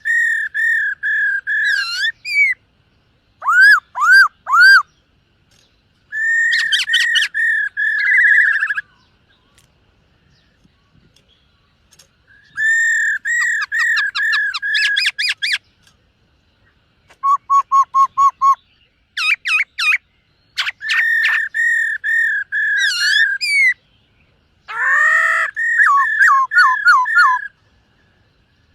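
Black-throated laughingthrush singing: bouts of clear whistled notes repeated several times a second, with short pauses between phrases and a longer lull about a third of the way in.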